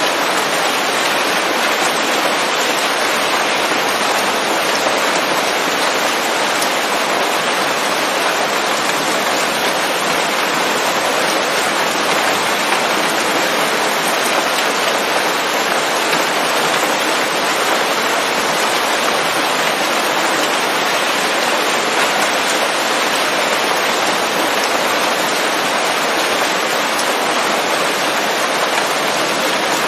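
Steady heavy rain falling on forest leaves, a dense even hiss without let-up or single drops standing out.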